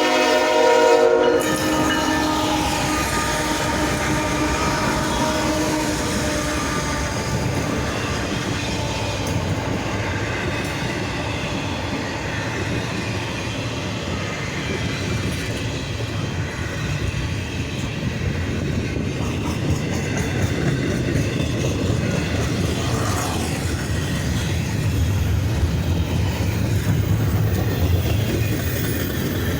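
A CSX double-stack container train: the locomotive's horn sounds and cuts off about a second in. Then the train rolls past with a steady rumble.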